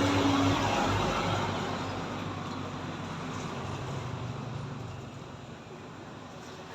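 A motor vehicle going past, loudest at the start and fading away as it recedes.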